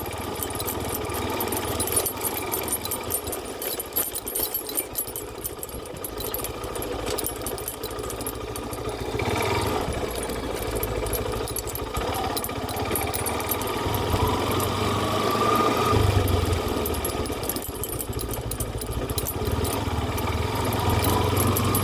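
An engine running steadily with a fast, rattling chatter.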